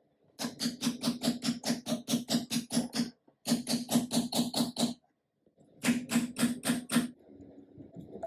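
Antique sewing machine mechanism running in three short runs of quick, even clatter, about six strokes a second, stopping briefly twice between them.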